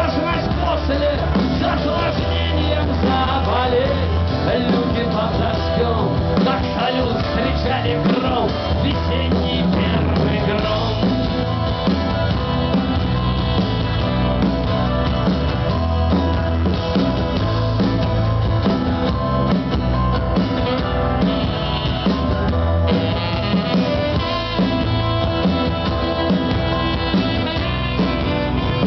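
Rock band playing live: an instrumental passage with drum kit and a steady bass line, no lyrics sung.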